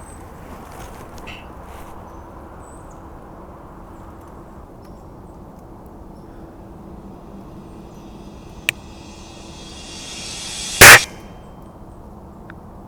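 A Gamo Varmint .177 break-barrel air rifle fires once, a single loud crack near the end, with a faint sharp click a couple of seconds before it.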